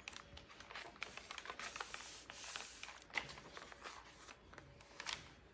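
Pages of a handmade journal being turned and handled: faint paper rustling with scattered small ticks and taps.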